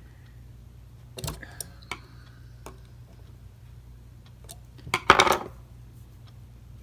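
Screwdriver clicking and scraping against a brass clock movement and its steel spring wires: a few light metallic clicks about a second in, one with a brief faint ring after it, then a louder cluster of clinks about five seconds in.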